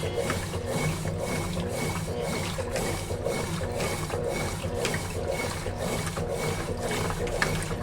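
Consul Facilite 11 kg top-loading washing machine running its wash cycle: a low motor hum with a regular swish-and-click pulsing about two or three times a second as the drum works the load.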